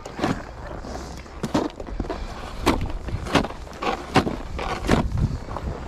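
Irregular crunching and scraping on snow, about one sharp stroke a second, over a low steady noise.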